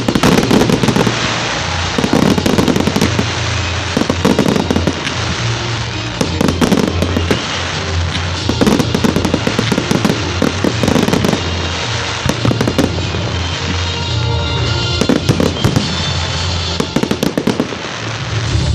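Fireworks display: rapid volleys of firework bangs and crackles going off in clusters, with music and its steady bass playing underneath.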